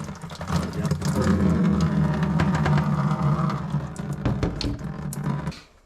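Handheld power saw running steadily as it cuts through a water supply pipe, then stopping suddenly near the end.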